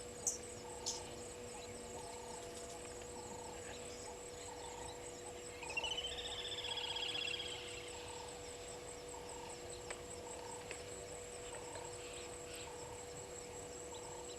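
Waterhole bush ambience: a steady high insect drone and a steady low hum, with a soft call repeating about twice a second. A louder rising animal call comes in about six seconds in and lasts under two seconds.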